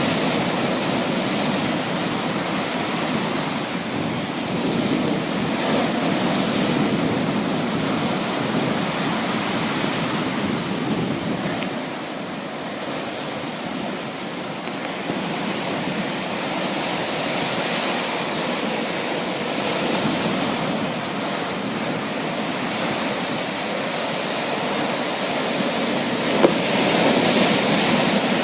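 Sea waves washing on the shore in a continuous rushing surf, swelling and easing slowly. A single short click sounds near the end.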